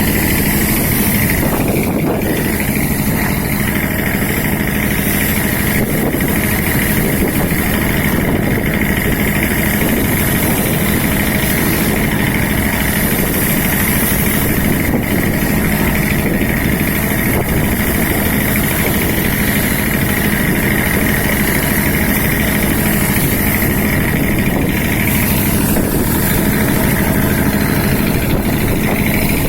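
Fishing boat's engine running steadily at an even, unchanging pitch.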